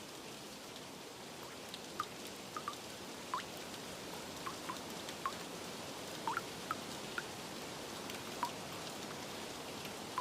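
Steady rain with scattered water drops plinking at irregular moments, each a short note dropping in pitch.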